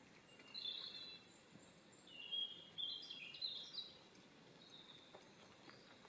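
A small bird singing: two short bursts of high chirping notes, the first about half a second in and a longer run from about two to four seconds in.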